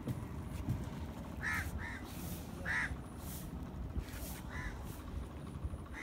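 Short bird calls, repeated several times at irregular intervals, over a steady low rumble.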